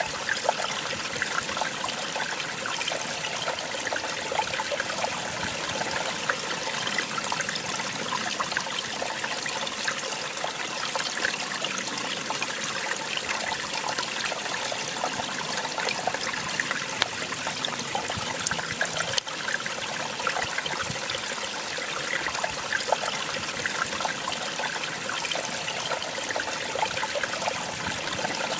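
Small waterfall, water splashing and trickling in a steady rush with no pauses.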